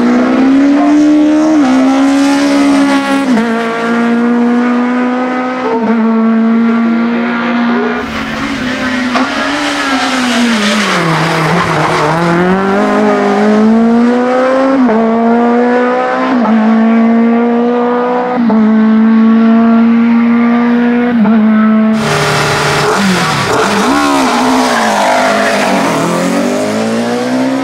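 Racing touring-car engines of up to 2.0 litres revving hard. The pitch climbs and drops back with each upshift, and twice it falls away and rises again. The sound changes abruptly twice.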